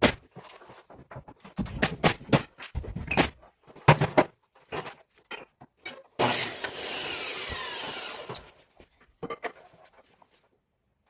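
Knocks and clatter from work on wooden ceiling framing. About six seconds in, a power tool runs for roughly two seconds, its pitch falling as it stops.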